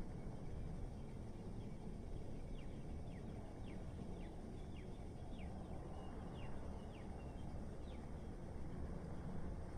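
Steady low city rumble of distant traffic. Over it, a bird gives a run of short, quickly falling chirps through the middle of the stretch.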